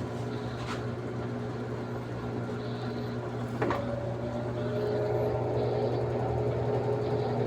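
Daewoo washing machine running with a steady motor hum, with a single click about three and a half seconds in, after which a higher tone rises slightly.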